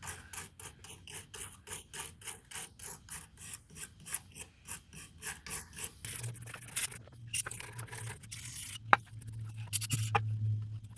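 Rapid back-and-forth scraping and rubbing strokes, about three to four a second, as grime and built-up metal shavings are cleaned off the bandsaw's blade-guide bearings. After about six seconds the strokes stop, a steady low hum takes over, and a couple of sharp clicks follow.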